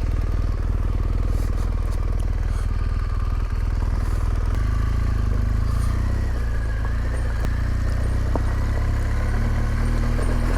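Motorcycle engine running steadily at low revs; its note changes about four and a half seconds in and creeps slowly higher near the end.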